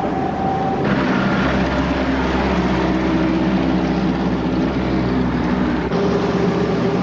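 Boat engine running steadily, a low drone with several held tones, its sound changing abruptly about a second in and again near the end.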